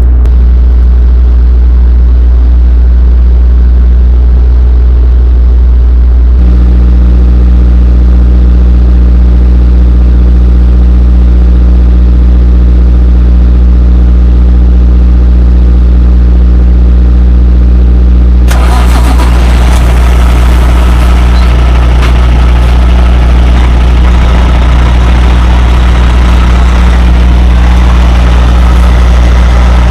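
Semi-truck diesel engine idling with a loud, steady low hum. About six seconds in the hum's tones shift, and about eighteen seconds in a louder hiss joins it.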